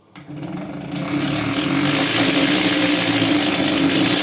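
Electric drill starting up and drilling into a wall: a steady motor hum with the grinding of the bit growing louder over the first two seconds, then running on steadily.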